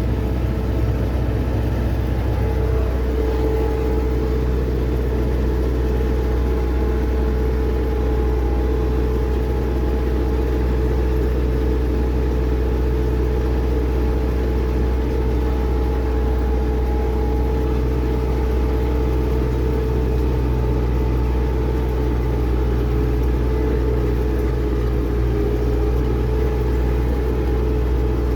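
MTZ-892 tractor's four-cylinder diesel engine running steadily at constant revs while pulling a seed drill, an even drone.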